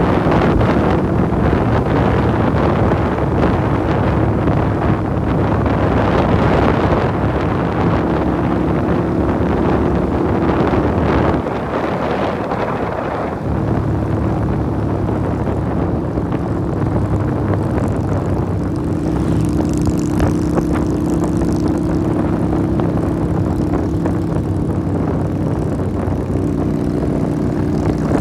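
Motorcycle engine running under way, its note rising and settling with the throttle, over wind rush. Partway through it eases off and goes quieter for a couple of seconds, then pulls again.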